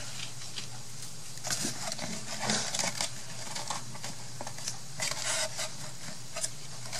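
Rustling and crinkling of craft materials being handled and sorted by hand, in short bursts about a second and a half in and again near five seconds, over a faint steady hum.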